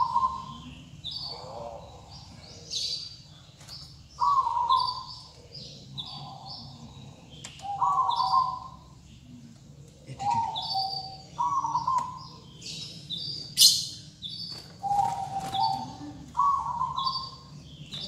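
Caged songbirds calling over and over: lower whistled notes about every second and a half, with quick high chirps in between and one sharper, louder chirp about two-thirds of the way through.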